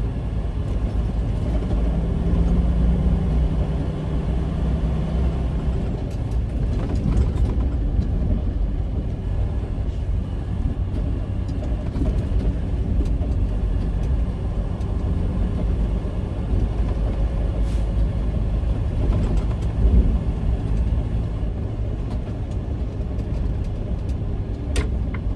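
Semi truck driving, its diesel engine and the road giving a steady low rumble.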